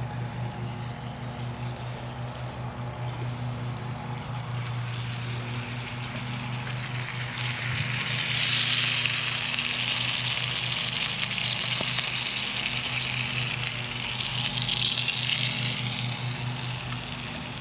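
Food sizzling over a campfire. The hiss swells loud about eight seconds in and eases off near the end, over a steady low pulsing hum.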